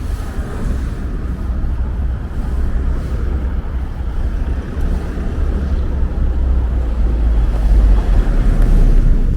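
Wind buffeting the camera's microphone: a loud, uneven low rumble that swells about eight seconds in.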